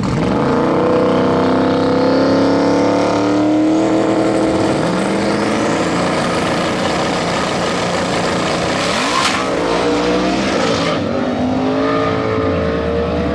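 Drag racing cars at full throttle accelerating down the strip, engine pitch climbing, dropping back at gear changes and climbing again, with a sharp crack about nine seconds in.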